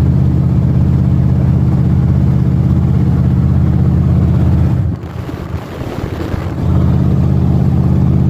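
Steady low drone of a vehicle's engine and road noise while driving. About five seconds in it drops off and turns rougher for under two seconds, then settles back to the same drone.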